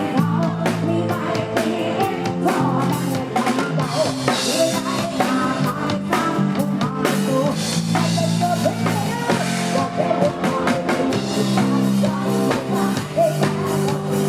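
Live Isan band music: drum kit and bass keep a steady beat under electric guitar and a wavering melody line.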